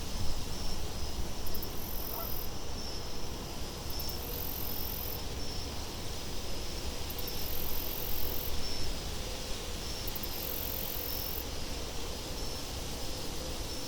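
Wind blowing in low, gusty swells, with crickets chirping steadily and bursts of higher insect buzzing that come back every few seconds.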